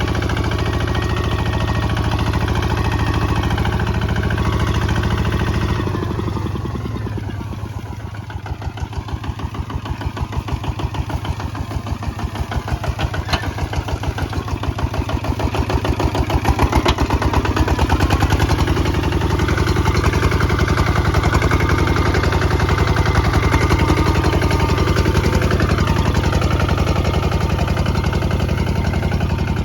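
Kubota ZT155 DI walking tractor's single-cylinder diesel engine running. About six seconds in it slows so that each firing beat can be heard, then picks up speed again over the next several seconds and runs steadily.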